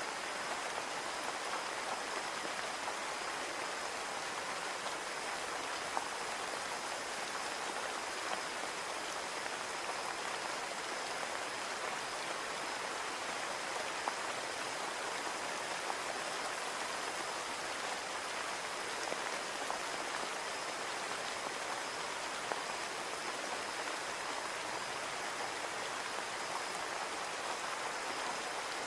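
Steady rain falling on a window pane: an even, unbroken hiss of many drops, with a few single louder drop hits now and then.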